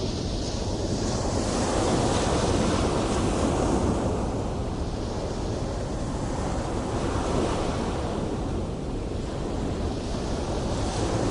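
Ocean waves breaking and surging in a continuous roar, swelling and easing every few seconds, with wind buffeting the microphone.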